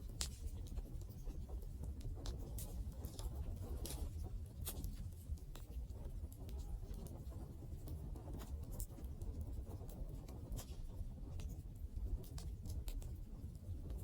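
Wood fire burning: irregular sharp crackles and pops over a low, steady rumble.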